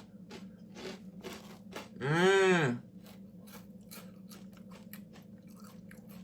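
Close-up chewing of crunchy cheese crackers (Cheez-It Crunch), crisp crunches about three a second. About two seconds in, a hummed "mmm" of enjoyment rises and falls in pitch, the loudest sound.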